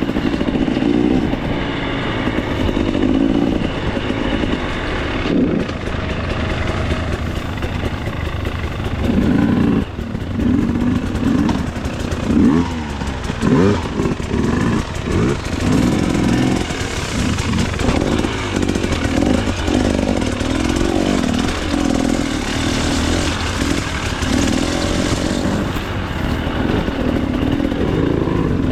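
2024 KTM 300 XC-W two-stroke dirt bike engine running as it is ridden, its pitch rising and falling as the throttle is worked. There are quick revs up and down around the middle.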